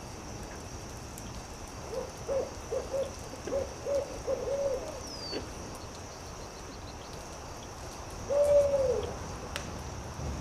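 An owl hooting: a quick run of about eight short hoots, then one longer drawn-out hoot that drops in pitch at its end. Faint scattered crackles of a campfire lie beneath.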